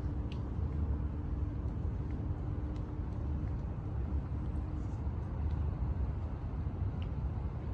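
Steady low rumble of outdoor city ambience, with a faint steady hum that stops about five seconds in and a few light ticks.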